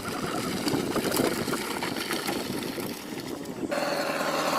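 Dirt bike engine running in an uneven, noisy mix. A steadier engine note comes in at about three and a half seconds.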